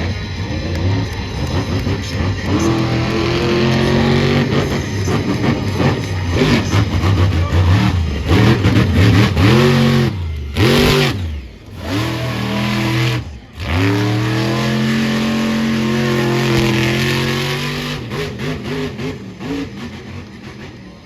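Monster truck engine revving hard and falling off again and again, briefly dropping out twice around the middle and each time revving straight back up.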